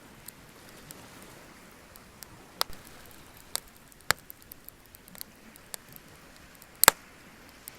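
Bonfire crackling, with scattered sharp pops and snaps over a faint steady hiss; the loudest is a double pop near the end.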